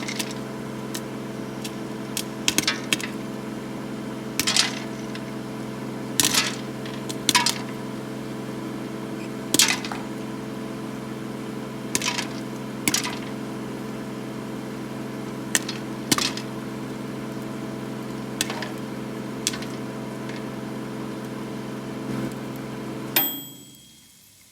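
Microwave oven running with a steady hum while popcorn kernels pop inside it, in sharp single pops spaced a second or more apart. Near the end the oven stops with a short beep and the hum dies away.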